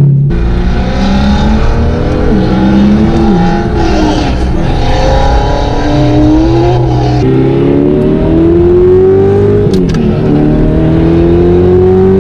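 Audi R8 V8 with an Armytrix titanium exhaust accelerating hard on track. The engine note climbs in pitch and drops back at each gear change, several times over.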